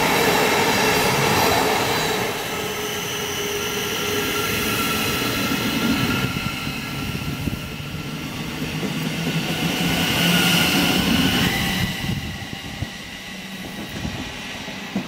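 Great Northern electric multiple-unit train running past close along the platform: loud wheel and body noise with a steady multi-tone electric motor whine, one tone rising about eleven seconds in, then fading over the last few seconds as the train clears.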